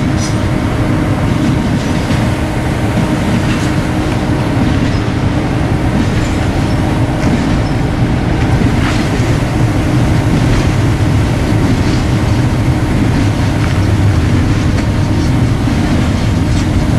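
Double-stack intermodal freight cars rolling past at close range: a loud, steady rumble of steel wheels on rail, with occasional clicks over the rail joints.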